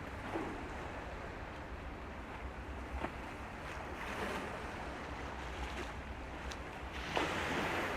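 Waterside ambience: waves washing and wind on the microphone over a steady low rumble, with a few small knocks and a louder swell of water noise near the end.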